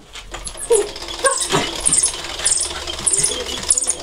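Jack Russell terrier making short, irregular barks and yelps at a running vacuum cleaner, over the cleaner's steady low hum.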